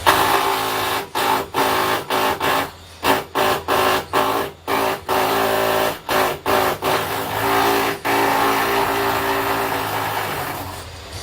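A power tool's motor run in many short bursts, stopping and starting again and again, then running steadily for a few seconds before fading near the end.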